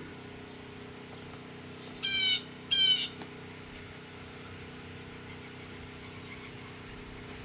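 Blue jay giving two harsh jeer calls in quick succession, about two seconds in. Under them runs the steady mechanical hum of a nearby compressor or generator.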